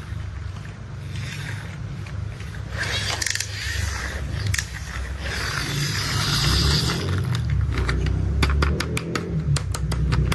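Toy construction vehicle play: a steady low rumble with scraping swells in the middle, then a fast run of sharp clicks, several a second, over the last two seconds.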